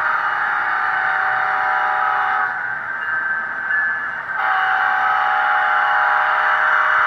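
Sound-equipped HO scale Amtrak P42 model locomotive sounding its horn through its small onboard speaker: two long blasts, the first ending about two and a half seconds in, the second starting about four and a half seconds in, over a steady hiss.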